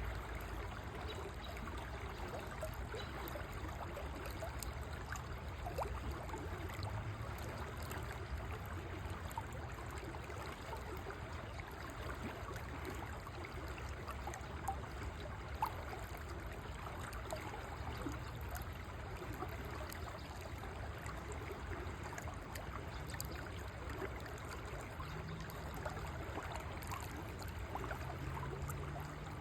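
A river flowing steadily, a continuous rushing and trickling of water, with two brief clicks about halfway through.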